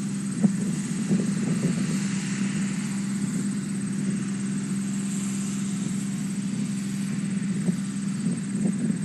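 Multirotor camera drone's propellers and motors humming steadily in flight, with an even buzz that does not rise or fall.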